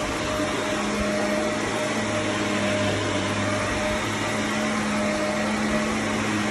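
Shark vacuum cleaner running steadily over carpet, a constant motor hum under a whooshing airflow.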